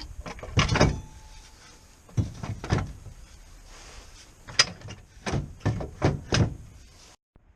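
Irregular sharp mechanical clunks and knocks, about eight in all, the kind made by tools and metal parts being handled and set down. The sound cuts off suddenly near the end.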